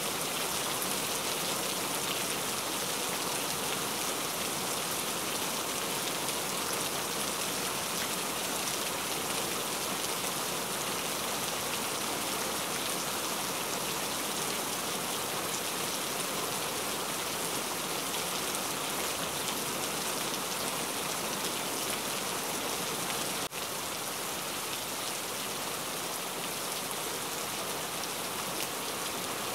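Cauliflower patties shallow-frying in hot oil in a pan: a steady sizzle with no letup.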